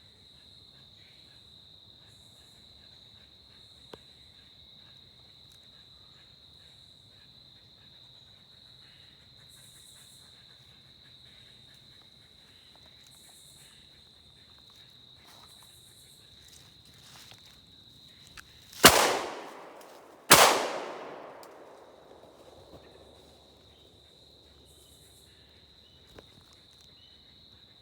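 Two loud, sharp bangs about a second and a half apart, each trailing off in a long echo, over a steady high-pitched insect drone that falls silent after the bangs and comes back a few seconds later.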